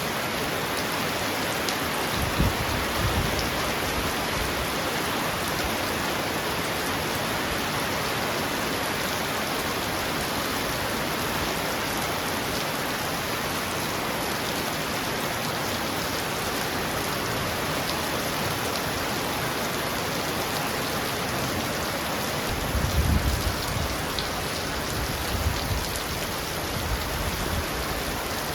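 Heavy rain pouring steadily on a roof, with low rumbles of thunder about two seconds in and again near the end.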